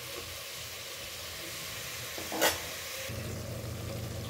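Onion-tomato masala with soya chunks sizzling in an aluminium pot, a steady hiss, with one sharp knock of metal on the pot about two and a half seconds in. About three seconds in, a low steady hum joins the sizzle.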